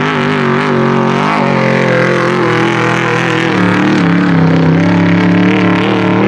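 T1 trophy truck engine running hard at high revs, its pitch wavering continuously and dropping slightly about halfway through.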